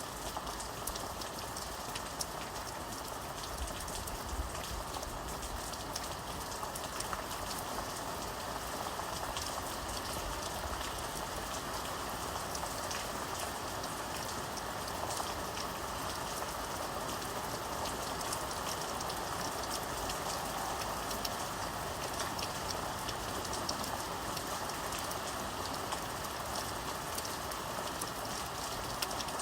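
Steady rain falling, a continuous hiss of drops with many small individual drop patters on a surface.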